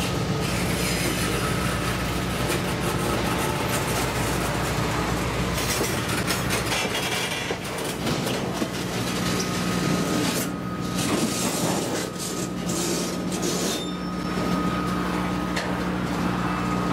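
Freight train boxcars rolling past on rough track: steel wheels clanking and knocking irregularly over the rail, with a thin steady wheel squeal running underneath.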